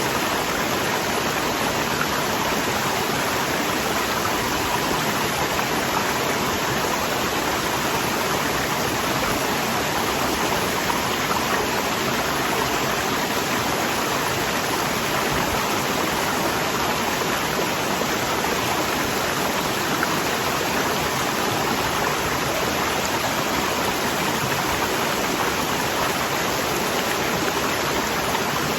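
Waterfall rushing steadily, a dense unbroken hiss of falling water.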